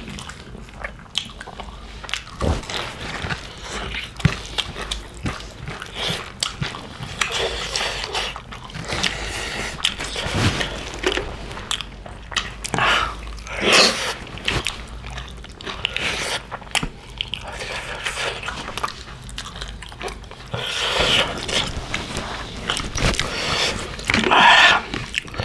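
Two people eating pig's feet curry and rice by hand, close to the microphone: chewing and biting, with many short wet smacks and clicks.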